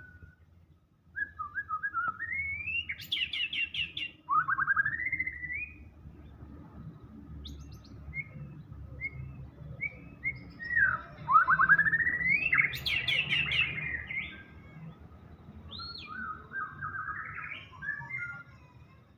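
White-rumped shama singing a long, varied song of rising whistles and rapid trills. Its song is full of mimicked phrases (isian). The song is loudest in one burst a few seconds in and a longer burst just past the middle.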